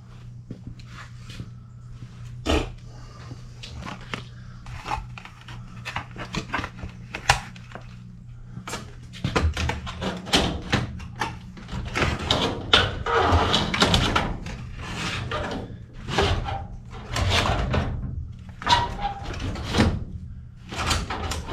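Sheet metal being handled and worked: irregular knocks, clanks and scraping, sparse at first and busier and louder from about halfway on, over a steady low hum.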